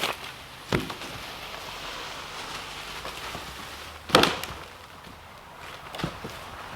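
Dead wood being broken up: a few sharp wooden cracks and knocks, the loudest about four seconds in, with rustling between them.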